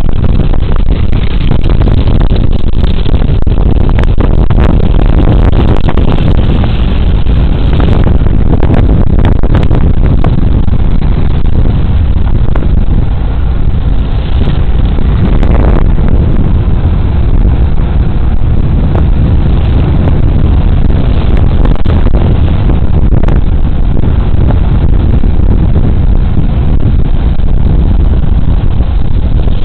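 Suzuki Burgman Street 125 scooter under way: a loud, steady rush of wind and road noise on a body-worn camera's microphone, over the scooter's engine running, with scattered short clicks and knocks.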